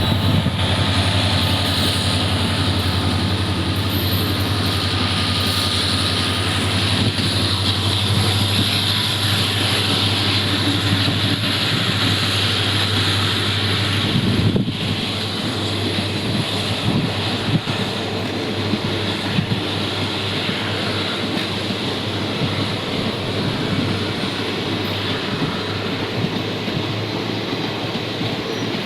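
Twin WDP-4D diesel-electric locomotives working in multiple unit, their EMD 16-cylinder two-stroke engines giving a strong, steady low hum over the rolling noise of a departing passenger train. The sound eases off slightly about halfway through.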